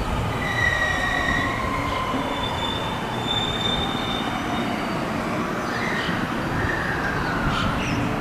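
A two-car 521-series electric train at the platform, its motors and brakes giving high whines that fall slowly in pitch, over steady rail noise with thin squealing tones.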